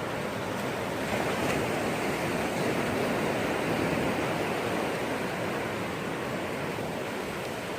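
Sea surf washing on the shore: a steady rush of breaking waves that swells a little in the first half.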